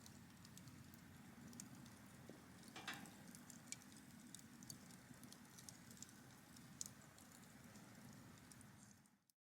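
Faint wood campfire crackling: scattered, irregular sharp pops and ticks over a low hiss, fading out near the end.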